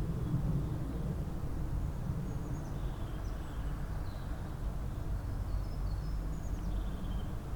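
Faint, scattered songbird chirps, short high notes coming every second or so, over a steady low rumble.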